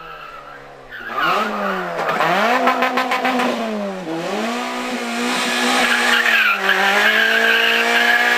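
Racing car engine revving hard, its pitch climbing and dropping back several times, growing much louder about a second in as the car comes close.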